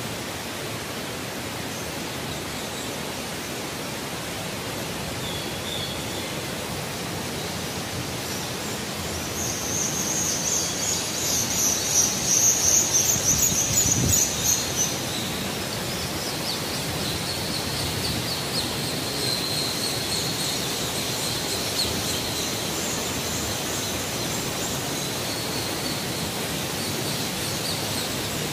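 Steady rush of a waterfall inside a rock-walled sinkhole, with a flock of biscutate swifts chattering high over it, echoing off the walls. The calls are loudest about ten to fifteen seconds in and go on more faintly afterwards.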